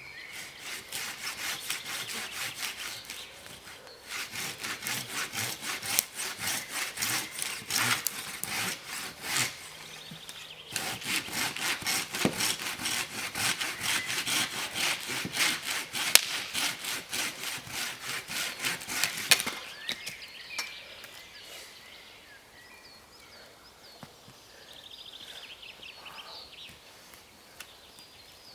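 A hand saw cutting through wood in rapid back-and-forth strokes. It pauses briefly twice and stops about two-thirds of the way through.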